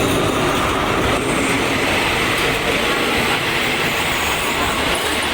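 Passenger train rolling along the station platform: a loud, steady rumble and rush of steel wheels on the rails.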